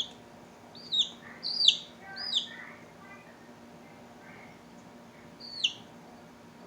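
A baby bird chirping: about five short, loud calls, each dropping in pitch. Four come close together in the first two and a half seconds, and one more comes near the end.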